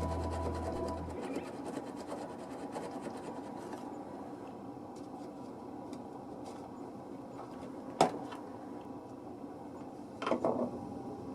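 Background music ending about a second in, then light handling noises on a workbench: rubbing and small ticks, one sharp click about eight seconds in, and a brief clatter near the end.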